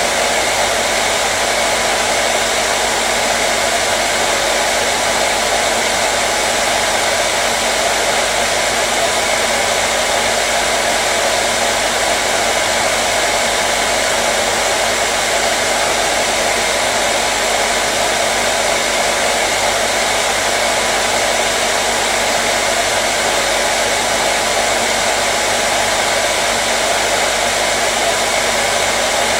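Hair dryer running continuously at a steady speed: an even, unchanging blowing hiss with a faint motor hum.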